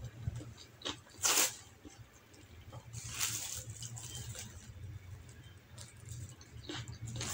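Close-miked eating sounds of a person chewing white basmati rice eaten by hand: wet mouth smacks and small clicks, with two louder sharp smacks about one and three seconds in, over a low steady hum.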